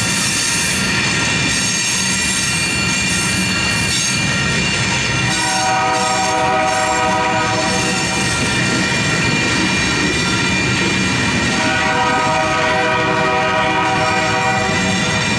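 Loaded coal hopper cars of a freight train rolling past a grade crossing, with steady rumble and wheel noise and a high, steady squeal. A train horn chord sounds in two long blasts, one about five seconds in and one about eleven seconds in.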